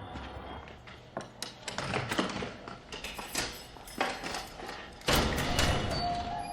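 A series of sharp knocks, clicks and thuds, then a louder low thud about five seconds in, followed by a rumble that fades out.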